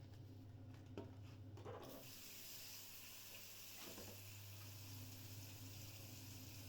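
Near silence: a steady low hum and faint hiss, with a few soft taps.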